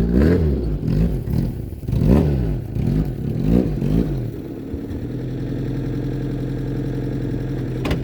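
Fiat 147 pickup's four-cylinder engine being revved in a series of quick blips, pitch rising and falling about once a second, then settling to a steady idle after about four seconds. A sharp click right at the end.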